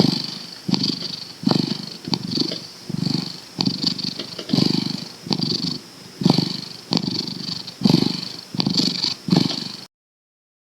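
Cat purring: a steady rhythm of rough pulses, about three every two seconds, that stops suddenly shortly before the end.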